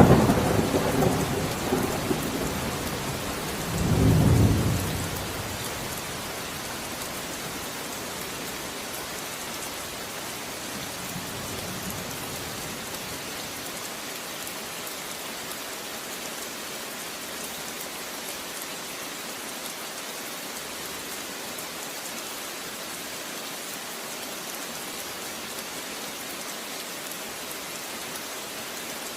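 Steady rain. Thunder rumbles at the start and swells again about four seconds in, then dies away, leaving the rain alone.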